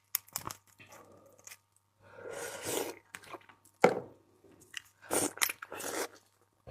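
Close-miked eating of raw seafood: irregular biting and chewing noises, with a sharp crunch about four seconds in.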